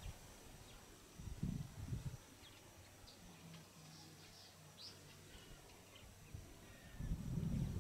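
Birds giving short, high chirps over a quiet outdoor background, with low rumbling noise swelling about a second and a half in and again near the end.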